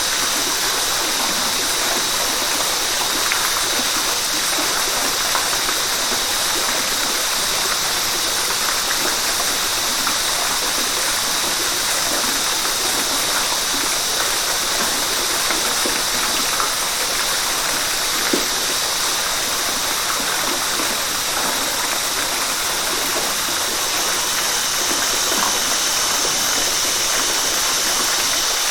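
Fast-flowing river water rushing steadily, an even hiss with no pauses.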